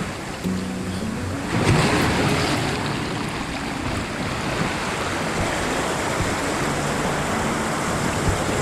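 Ocean surf breaking on a rocky shore: a steady wash of water, with a wave crashing about one and a half seconds in and its wash running on after.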